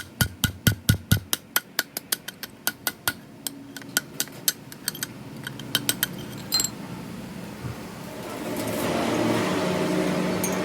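Quick light hammer taps on metal, about five a second, ringing a little, then slowing and thinning out about six seconds in. A steady machine noise swells up near the end.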